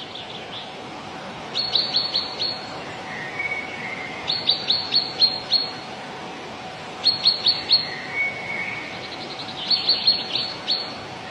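A songbird singing a phrase of five or six quick, high, downward-sweeping notes, repeated four times about every three seconds. A softer, lower warbling call comes between the phrases.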